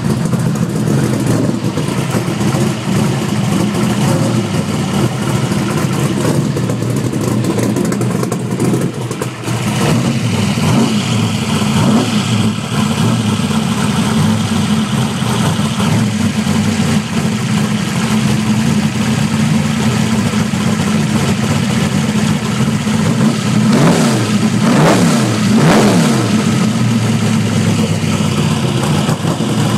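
Carbureted small-block Chevy V8 race engine running at idle, with a few short throttle blips that send the pitch up and back down about 24 to 26 seconds in.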